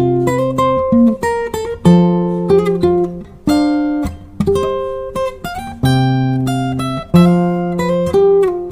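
Solo acoustic guitar played fingerstyle: plucked melody notes over ringing bass notes, with crisp attacks about once a second.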